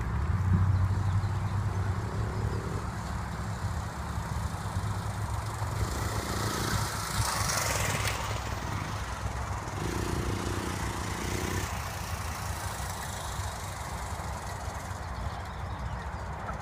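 Pit bike engine running steadily, swelling louder for a couple of seconds about midway.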